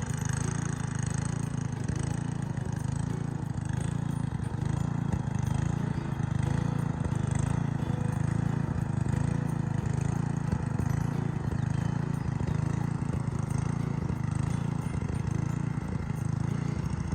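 An engine running steadily, with an even low drone that pulses without let-up.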